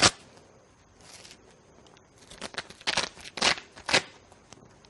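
Letter pieces being handled on a felt board: about five short rasping scrapes, the loudest three close together in the second half.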